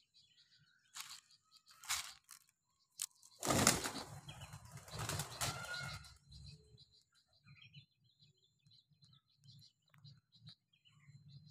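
Bird wings flapping: two short flurries about one and two seconds in, then a longer, louder flurry lasting about two and a half seconds. Small birds chirp faintly throughout.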